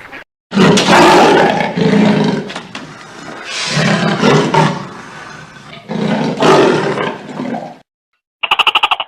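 A big cat roaring: four long, loud, deep roars in a row. Near the end a different animal gives a quick run of about eight short pitched calls.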